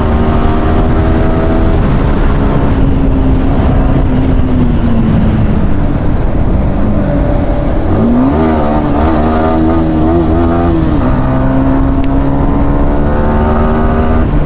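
Yamaha R15 V4 motorcycle's single-cylinder engine running at highway speed. The engine note sags a little after a couple of seconds, rises sharply about eight seconds in and wavers for a few seconds as the bike accelerates, then holds steady.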